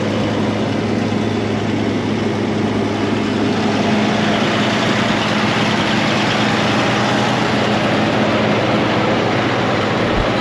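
1945 Oliver Cletrac AG6 crawler's six-cylinder Continental gasoline engine idling steadily and smoothly.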